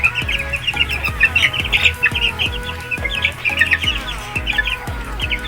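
A brood of young Sweater Boston gamefowl chicks peeping, many short high chirps overlapping without a break.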